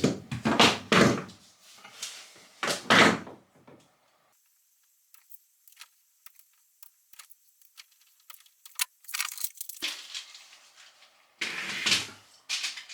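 Rustling and clattering of small parts being handled, in a few short bursts, with a stretch of near quiet and faint clicks in the middle.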